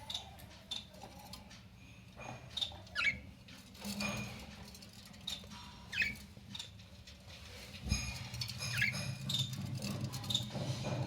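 Budgerigars giving short, sharp chirps every couple of seconds, each call dropping in pitch.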